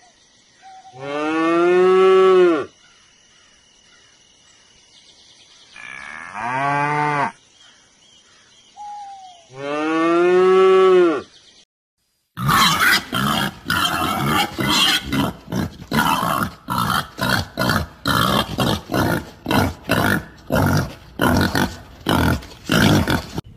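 Black-and-white Holstein-type cattle mooing: three long moos, a few seconds apart. About halfway through, wild boar take over with a fast run of rough grunts and snorts, about two a second.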